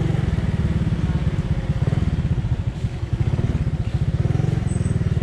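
Small motorcycle engine running at low speed under the rider, a steady fast pulsing exhaust note. The note slows and softens briefly about halfway through, then picks up again.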